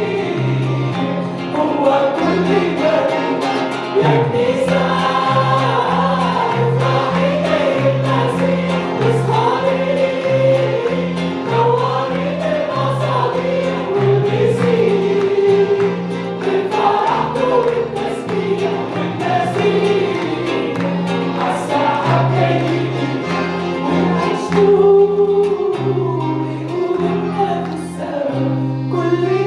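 Church praise singing: a group of voices sings a worship song over band accompaniment with a steady, pulsing bass line.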